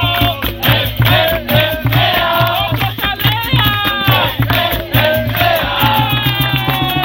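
Capoeira roda music: voices singing together over a steady hand-drum beat and rattling percussion.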